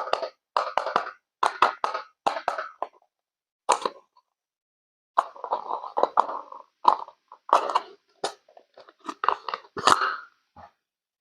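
Short bursts of wet splashing and plopping in a small water-filled doll bath, with crisp, crunchy wet sounds, broken up by moments of silence.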